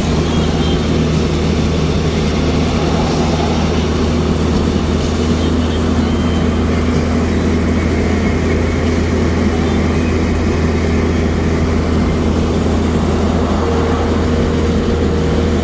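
Vehicle running with a steady low engine and road drone that holds an even pitch and level.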